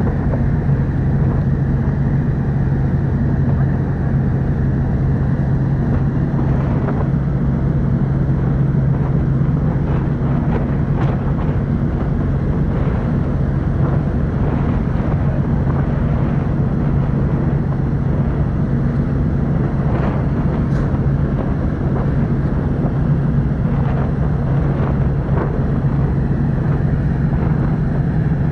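Car ferry Kuniga's engines running steadily at cruising speed, heard aboard as an even low drone with a rushing wash of noise over it.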